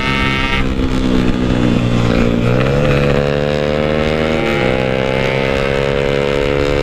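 Yamaha RX-King 135cc single-cylinder two-stroke motorcycle engine running under way and revving through the gears. The pitch drops sharply just under a second in as the throttle is closed, climbs again around two and a half seconds, changes gear around four and a half seconds, and then holds steady.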